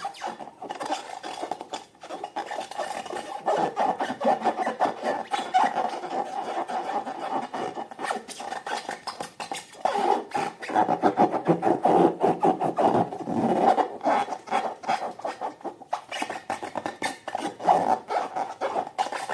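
Slime being mixed and squished by hand: a dense stream of sticky crackles and clicks, busiest around the middle.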